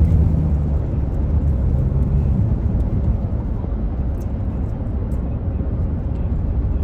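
A steady low rumble of outdoor or vehicle noise, with a faint hum that fades out about two and a half seconds in.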